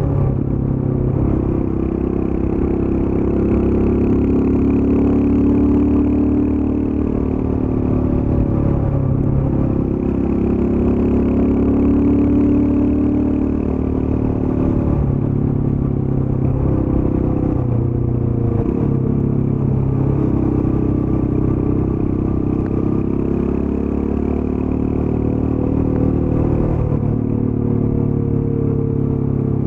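Royal Enfield Scram 411's 411 cc air-cooled single-cylinder engine running through its stock exhaust while the motorcycle is ridden at a brisk pace. The engine note rises and falls with the throttle, dipping briefly several times and then climbing back.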